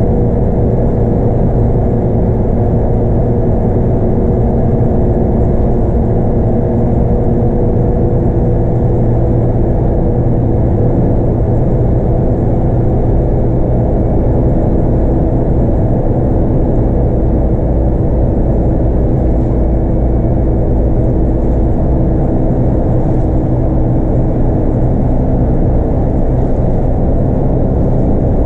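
Scania DC9 8.9-litre five-cylinder diesel of a Scania K230UB bus running under way, heard from on board with road rumble. The engine note stays steady, easing slightly lower in pitch over the stretch.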